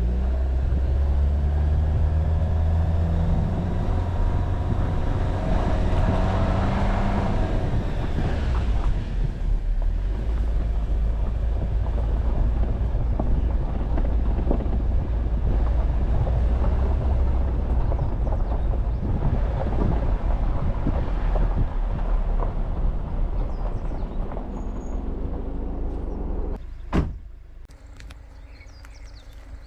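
Jeep Wrangler driving on an unpaved forest road: the engine's low drone rises and falls in pitch, with crackling from the tyres on the loose surface. Near the end there is a sharp click and the engine noise drops away.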